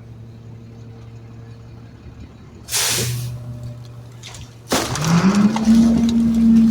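Garbage truck engine idling, a short air hiss about three seconds in, then the engine revs up about five seconds in and holds at the higher speed under a loud rush of noise.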